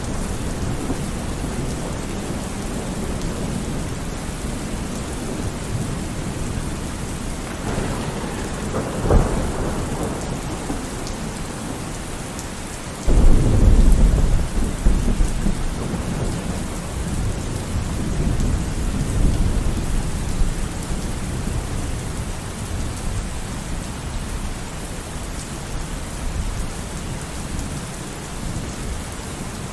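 Steady heavy rain with thunder: a softer rumble about a third of the way in, then a sudden loud thunderclap about halfway through that rolls on and fades over several seconds.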